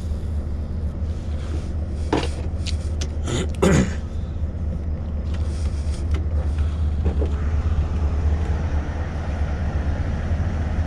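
Scania V8 truck engine running with a steady low drone, heard inside the cab. A few clicks and knocks come about two to four seconds in, the loudest near four seconds.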